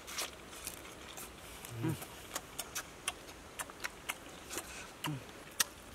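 People chewing fried fish eaten with their fingers: scattered wet lip smacks and mouth clicks, with two short low hums, about two seconds in and again about five seconds in.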